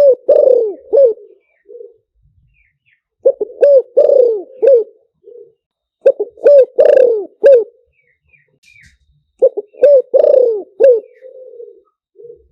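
Spotted dove cooing: four phrases of several short, downward-curving coos, one roughly every three seconds. It is a luring call used to draw wild doves to a decoy trap. Faint high chirps sound between the phrases.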